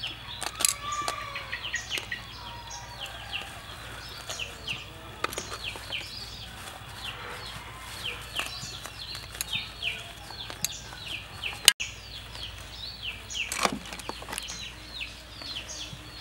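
Small birds chirping continuously, a stream of short falling chirps, several a second. A single sharp click comes about twelve seconds in.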